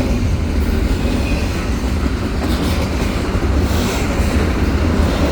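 CPKC double-stack container freight train rolling past at close range, its wheels clattering over the rails with a steady heavy rumble.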